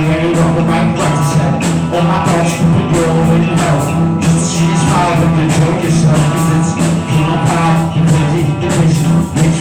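Rock band playing an improvised piece, with guitar and a held bass note over a steady drum beat.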